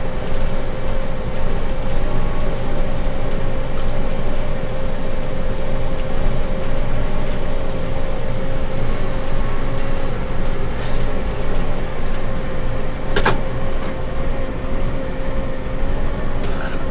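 DJI S1000 octocopter's motors and propellers humming at a steady pitch in flight, with strong wind rumbling over the microphone. There is a sharp click about thirteen seconds in.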